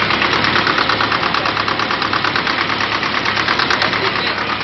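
Isuzu 4HL1 four-cylinder diesel engine idling steadily, with an even, rapid diesel knock.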